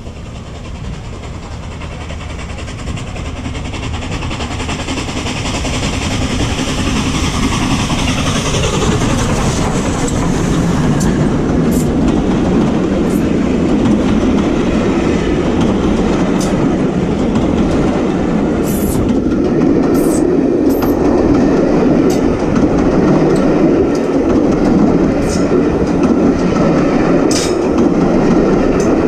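Train running on the rails: the rolling wheel noise grows louder over the first ten seconds, then holds steady. A tone falls in pitch about eight seconds in, and scattered sharp clicks come from the wheels on the track.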